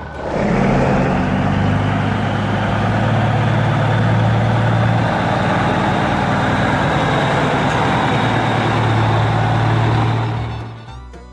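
A loud, steady mechanical noise, a low hum under an even hiss, that starts just after the beginning and fades out near the end.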